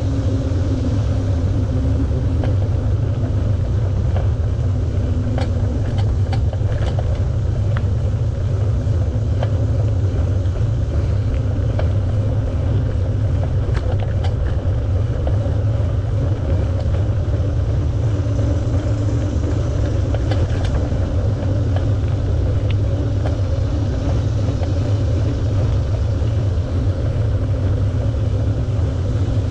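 Steady low rumble of wind buffeting the microphone and bicycle tyres rolling on a paved path during a ride, with a few light clicks and ticks scattered through it.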